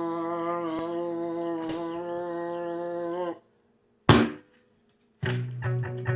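A person humming one long, steady note that cuts off suddenly after about three seconds. After a short silence there is a single sharp hit, and near the end strummed guitar chords begin.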